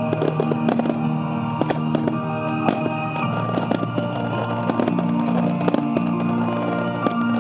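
Japanese star mine fireworks: aerial shells bursting with sharp bangs at irregular intervals, about one or two a second, over music with long held notes.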